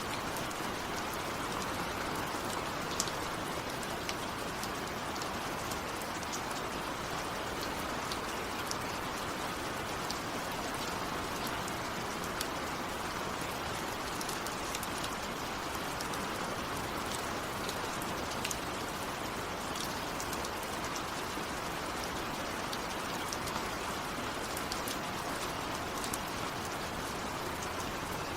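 Steady heavy rain falling, with individual drops ticking sharply over the even hiss, a few louder drops standing out.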